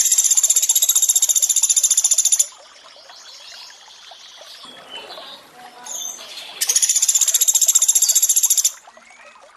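Recorded song of the bird called pelatuk beras: a loud, very fast, high chattering trill lasting about two and a half seconds, given twice, over a soft trickle of running water.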